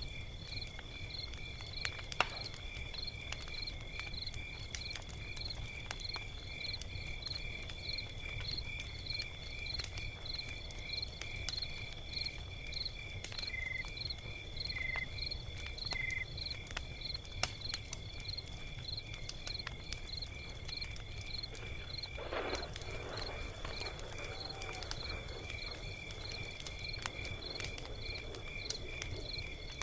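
Log fire crackling with many small sharp pops over a low rumble, against a steady background of insects chirping in a regular, even pulse.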